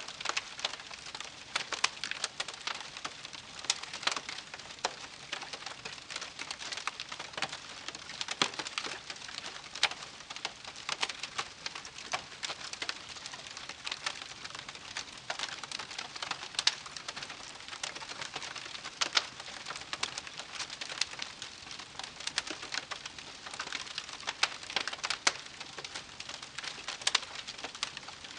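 Wood campfire crackling: irregular sharp pops and snaps, several a second, over a steady hiss.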